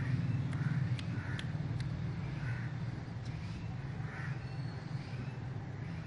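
Harsh, crow-like cawing calls, short and repeated roughly once a second, over a steady low hum.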